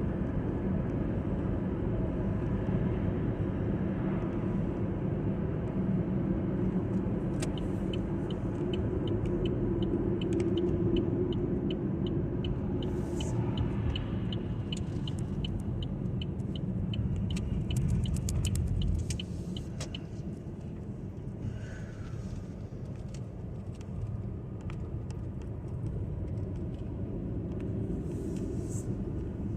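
Car road noise heard from inside the cabin: a steady low rumble. For about ten seconds in the middle there is a regular light ticking, about three ticks a second. The rumble eases off a little after about 19 seconds.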